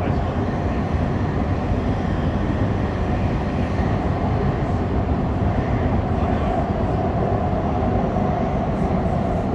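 Tokyo Metro Fukutoshin Line train running along the track: a steady rumble of wheels and running gear, heard from inside the car.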